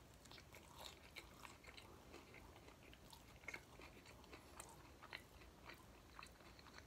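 Faint chewing of a crispy pan-fried corn-tortilla chicken taco, with small, irregular crunches and mouth clicks.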